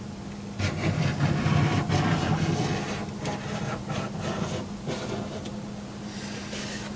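Irregular hand rubbing and scraping strokes on a hard model surface, the kind made by sanding or working spackling compound, starting about half a second in and dying away after about five seconds. A steady low hum runs underneath.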